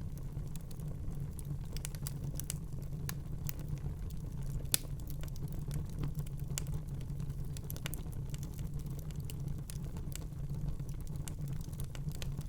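Wood fire burning in a fireplace: a steady low rumble with frequent irregular crackles, and one louder pop about five seconds in.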